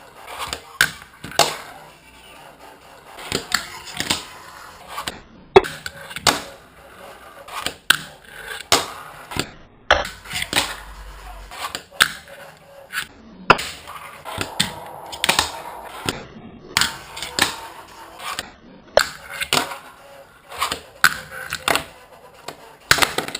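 Wooden fingerboard doing tricks on a small ramp: a string of sharp clacks as the tail pops and the board lands, with brief rolling and grinding scrapes in between.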